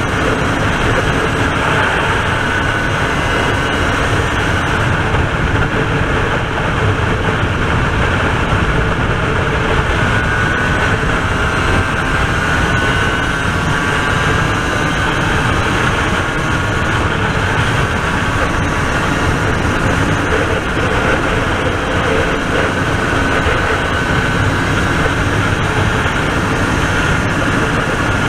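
RS250 two-stroke V-twin motorcycle engine running at speed, its faint pitch rising and falling with the throttle, under heavy wind rush on the microphone.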